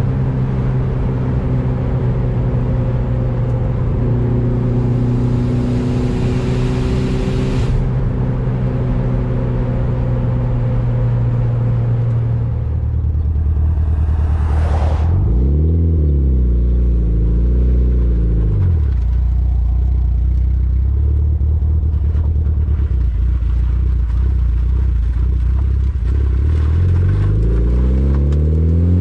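Mitsubishi Lancer Evolution VIII's turbocharged four-cylinder running through an Invidia aftermarket exhaust while driving. It holds a steady pitch for the first dozen seconds, then drops to a lower drone, swells up and down twice, and climbs in revs near the end.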